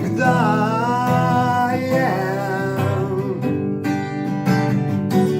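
Acoustic guitar strummed in simple chords under a voice singing in Russian. The sung word "всегда" is held with a wavering pitch and ends about three seconds in, leaving the guitar strumming alone.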